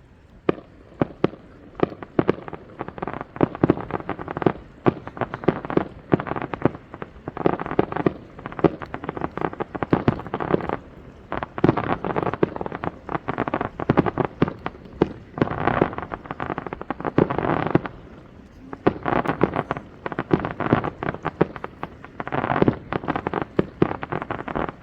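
Aerial fireworks bursting in a dense rapid barrage of sharp bangs and crackles, with a few brief lulls.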